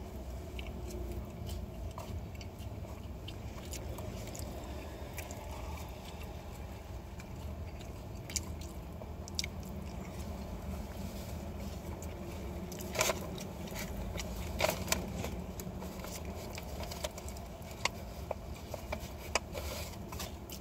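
A person chewing and biting food with the mouth close to the microphone, with scattered short crunches and clicks, more of them a little past the middle, over a steady low hum.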